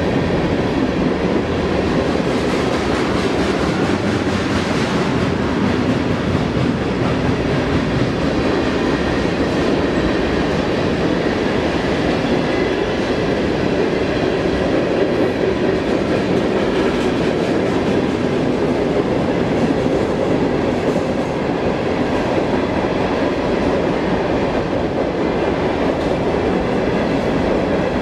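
Freight cars of a long mixed freight train, covered hoppers and tank cars, rolling past on steel wheels over the rails: a loud, steady rolling noise that holds level throughout.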